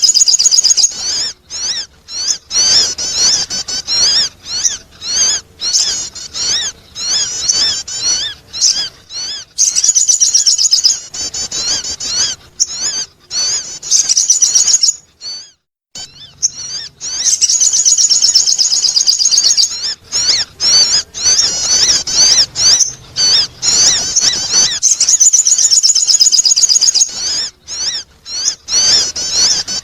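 Sogon bird song used as a lure call: rapid, high-pitched chirping phrases repeated over and over. It breaks off briefly a little past halfway, then resumes.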